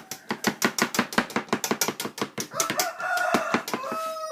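Knife chopping tomatoes on a cutting board in quick, even strokes. A rooster crows over it about two and a half seconds in, for under two seconds.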